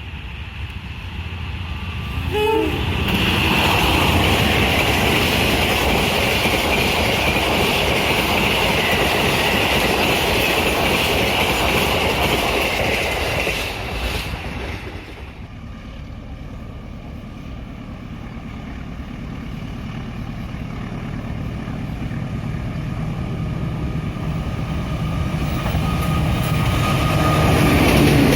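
A train passing with a long, steady high-pitched horn blast of about ten seconds over the rumble of the wheels. The horn stops about a third of the way in, and the rumble of the train builds again towards the end.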